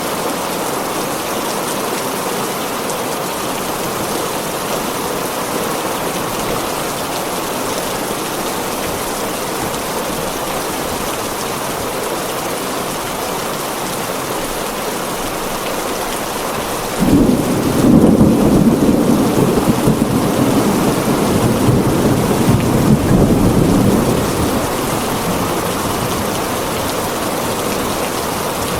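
Heavy rain falling steadily on a tin roof. About seventeen seconds in, a thunderclap breaks suddenly and rumbles on for about seven seconds before fading back under the rain.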